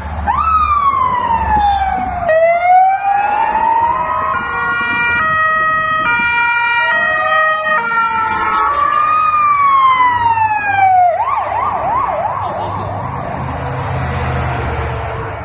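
Fire engine sirens: a slow wail rising and falling, then a stretch of steady tones changing in steps, another wail, and a fast yelp of about four sweeps a second that breaks off into noise about two-thirds of the way through, over a low engine rumble.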